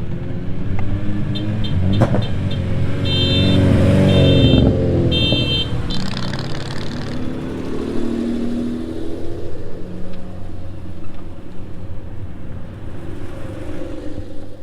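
Cars driving past on a street, their engines running, with the loudest one swelling past about two to five seconds in and another going by a little later. Over the first pass comes a quick run of short electronic pips, then three longer beeps.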